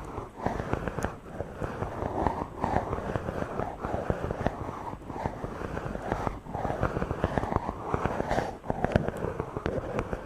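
Fingers rubbing directly on a microphone: a dense, scratchy crackle of many small clicks that swells and eases as the strokes go back and forth.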